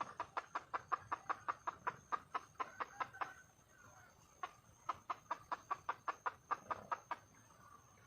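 Red junglefowl hen clucking in two rapid runs of short, evenly spaced clucks, about six a second, with a pause of about a second between them: a wild hen calling for a mate.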